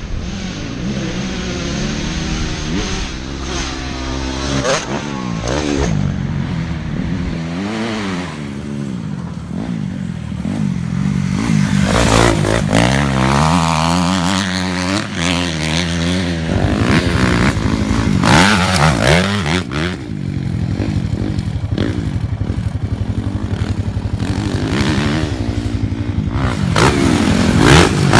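Dirt bike engine revving as it is ridden, its pitch rising and falling again and again with the throttle.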